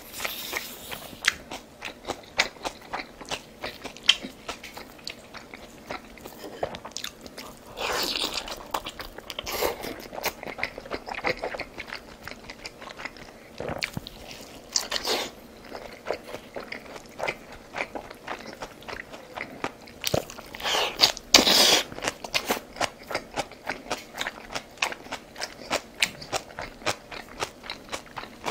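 A person chewing and crunching food close to the microphone, with many small wet mouth clicks and a few louder crunching bites.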